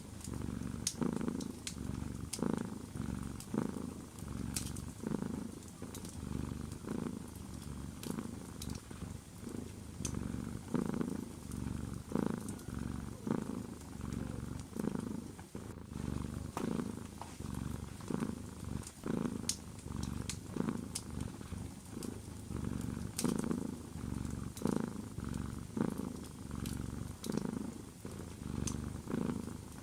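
Domestic cat purring close up, a low rumble that swells and fades with each breath about once a second, with faint crackles of a wood fire in a fireplace.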